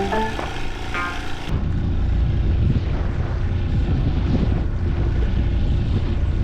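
Background music with plucked notes for about the first second and a half, then it cuts suddenly to a boat's engine running with a steady low rumble.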